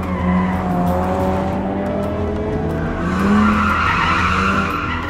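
Cartoon vehicle sound effects: an engine revving with a slowly rising pitch, then tyres skidding, over background music.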